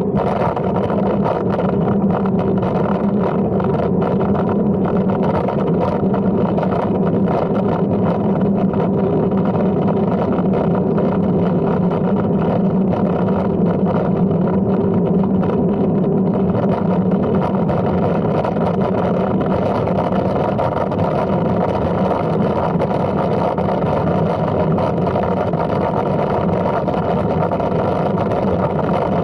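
Steady rumble of wind and tyre noise from a folding bicycle being ridden, unbroken and even in level.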